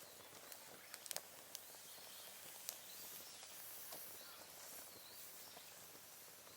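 Small wood fire crackling faintly over a steady hiss, with a few sharp pops, several of them about a second in.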